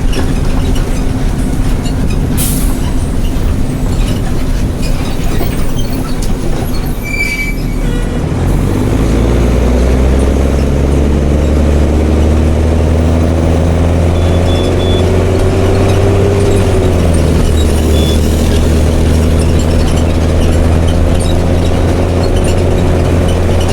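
Mercedes-Benz OH1420 city bus with its OM366LA six-cylinder turbo-diesel and open exhaust. At first it is a rough rumble with a short brake squeal about seven seconds in. Then the engine drone settles into a steady low hum, its pitch drifting slightly.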